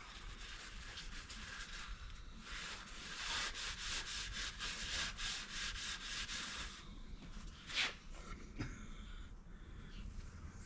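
Brake-cylinder hone stones rubbing against the bore of a 1940 Packard front wheel cylinder: a rasping scrape in a quick, even rhythm that starts about two seconds in and stops about seven seconds in. A single sharp knock follows about a second later.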